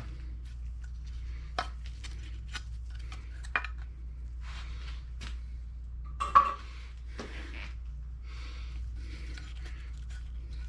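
Metal lawn mower engine parts clinking and knocking as they are handled during teardown, with scattered sharp clicks and one louder knock about six seconds in, over a steady low hum.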